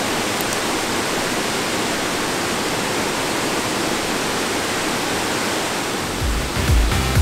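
Waterfall rushing, a steady dense hiss of falling water. Irregular low rumbles join in about six seconds in.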